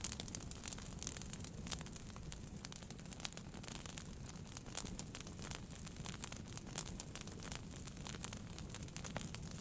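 Wood fire burning in a fireplace, crackling: a dense, irregular stream of small pops and snaps over a low, steady rumble of the flames.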